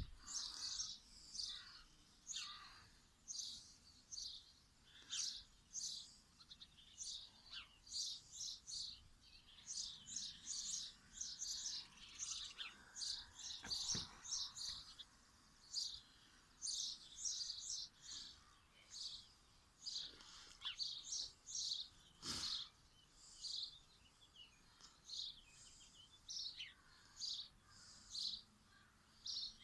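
Small songbirds chirping and singing in short, high, repeated phrases, coming every second or so. There is a single sharp knock about 22 seconds in.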